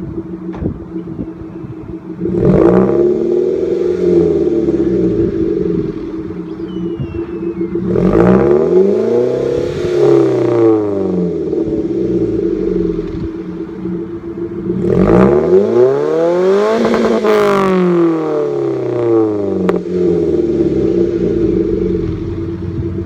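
Mazda 3's four-cylinder engine revved three times from idle, breathing through a custom exhaust: a 2.25-inch straight pipe from the catalytic converter to the axle, a Magnaflow muffler, then the stock 1.75-inch over-axle pipe and a stainless tip. Each rev rises and falls in pitch, and the third goes highest and lasts longest, with idling in between.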